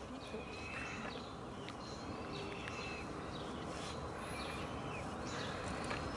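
A bird calling over and over, short high calls a little more than once a second, over steady outdoor background noise.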